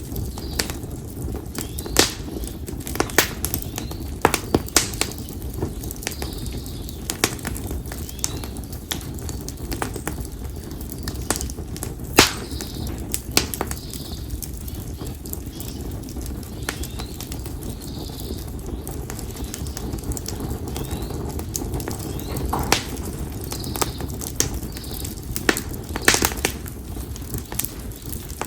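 Split konara oak firewood burning in a campfire: irregular sharp crackles and pops over a steady low rush of flame. Faint bird calls come in every few seconds.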